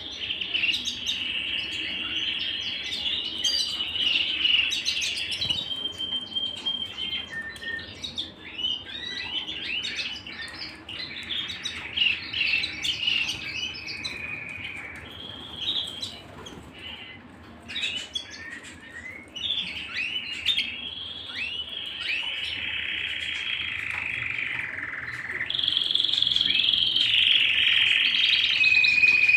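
Domestic canary singing a long, continuous song: held rolling trills alternating with passages of quick chirping notes, louder in the last few seconds.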